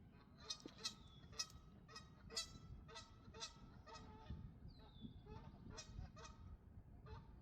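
Faint goose honking: a string of short calls, roughly two a second, with a thin falling whistle from another bird about halfway through.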